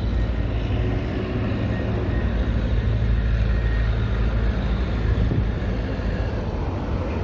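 Steady low rumble of road vehicles running, with no distinct events standing out.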